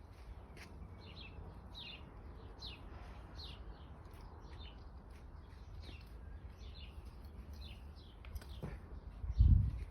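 Small birds chirping: many short, quick notes repeating throughout, over a steady low rumble. A loud low thump sounds near the end.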